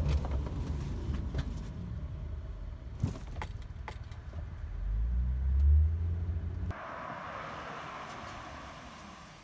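Honda Odyssey minivan driving, heard from inside the cabin: low road and tyre rumble with a few sharp clicks and light rattles. The rumble swells about five seconds in, then cuts off abruptly near seven seconds, leaving a quieter steady hiss.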